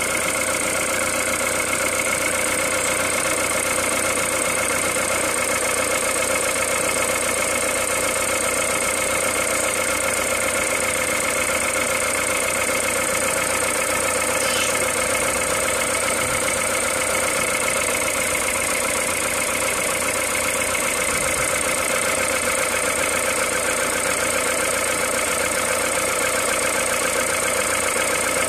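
Peugeot 207 VTi 120's 1.6-litre four-cylinder petrol engine idling cold on 5W30 oil at 58,300 km. It runs steadily, with a constant high-pitched whine above the engine note.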